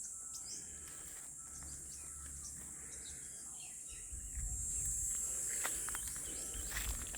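Steady high-pitched drone of insects, such as crickets or cicadas, with a low rumble joining in about four seconds in and a few faint clicks.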